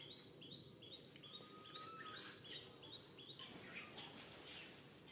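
Faint, steady run of short high bird chirps, about two a second, stopping a little over three seconds in, followed by a few louder, sharper high squeaks.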